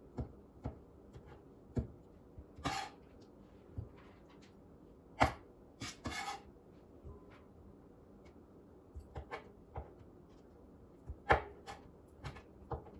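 A kitchen knife knocking on a cutting board at irregular intervals while cutting rotisserie chicken into chunks, with a few short scraping or rustling sounds; the sharpest knocks come about five and eleven seconds in.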